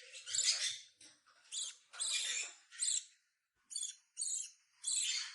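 Hand-fed lovebird chick giving short, high-pitched squeaky begging calls, about eight in a row, roughly two a second, while being spoon-fed formula.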